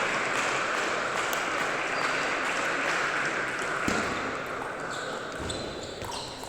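Table tennis ball knocking against bat and table: a few sharp clicks, the clearest about four seconds in, over a steady din.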